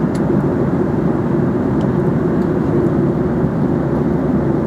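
Steady cabin noise inside an airliner in flight: an even, unbroken rush of engine and airflow noise, heaviest in the low range.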